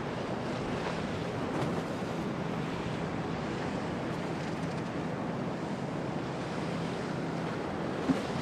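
Storm waves washing against the harbour with wind blowing across the microphone, a steady rushing noise. A single brief thump sounds near the end.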